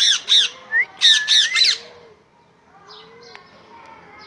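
Parrot squawking: a quick run of harsh, screechy calls over the first two seconds, then quieter. A soft, low call repeats underneath about every second and a half.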